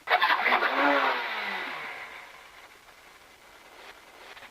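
Rally car engine at high revs, starting suddenly, then falling in pitch and fading away over the next couple of seconds.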